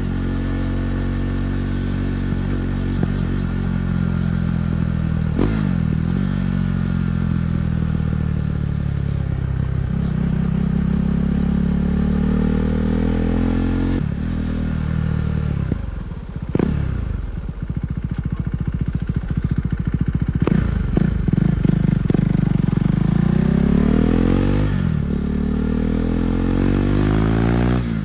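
KTM 390 Duke's single-cylinder engine running through an aftermarket Akrapovič exhaust while riding. The engine pitch climbs and falls repeatedly as the bike accelerates, shifts gear several times and slows. A lower, uneven stretch comes near the middle.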